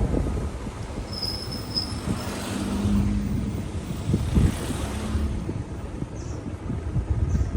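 Motorcycle riding noise: wind rumbling on the microphone over a low engine hum, with a brief high-pitched squeal about a second in.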